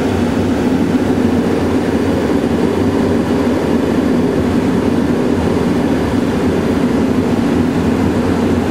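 Steady road and engine noise inside a moving Honda's cabin, an even drone with no breaks.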